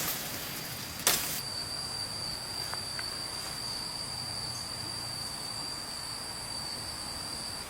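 An insect's steady, high-pitched continuous call over a soft background hiss. It comes in about a second and a half in, just after a single sharp click, and holds unbroken.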